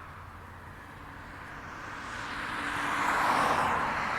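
A car approaching on a nearby road, its tyre and engine noise swelling steadily to its loudest near the end.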